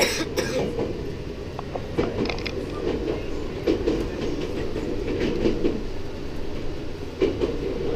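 Train running along the track, heard from inside the carriage: a steady low rumble broken by several irregular clacks and knocks from the wheels and car body.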